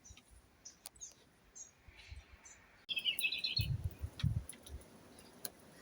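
Small birds chirping outdoors: scattered short, high chirps, then a quick trill of repeated notes about three seconds in. A few low thuds follow shortly after the trill.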